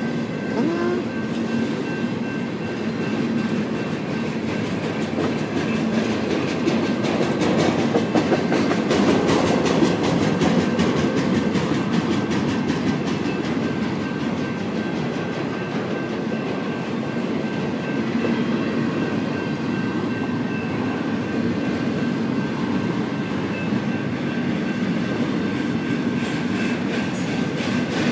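Double-stack intermodal container train's well cars rolling past at speed: a steady rumble of steel wheels on rail with rapid clicking over the joints, thickest around a third of the way through, and a faint steady high-pitched ring above it.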